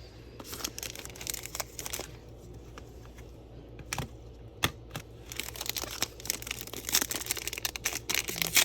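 Crinkling and crackling of a trading-card pack's foil wrapper being handled and opened, sparse at first and much busier over the last few seconds.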